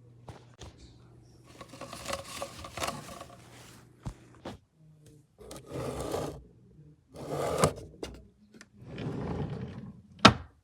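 Rustling and scraping in several short bursts, with a few sharp clicks or knocks between them.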